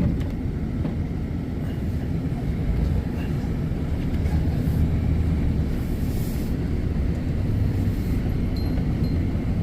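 Truck engine running steadily, a low, even drone without change in pitch.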